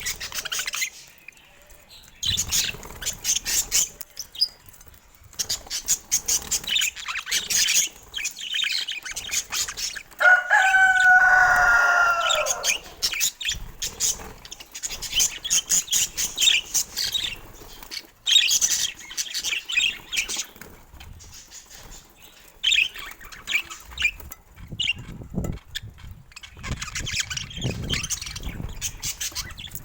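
Budgerigars chattering and warbling in quick bouts of rapid, high chirps and clicks, with one louder wavering call about ten seconds in.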